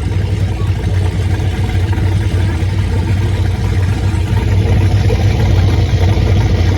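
Car engine running steadily with a low hum, growing slightly louder about four and a half seconds in.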